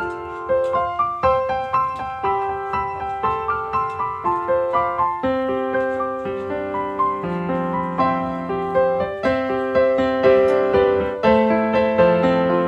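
Background piano music, a gentle melody of struck notes at a steady pace.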